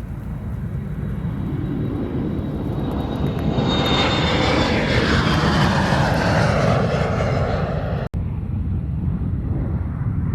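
Airplane engines passing close by. The rumble builds to a peak about halfway through, with a high whine that falls in pitch as the aircraft goes past. The sound cuts out for an instant about eight seconds in, then carries on lower.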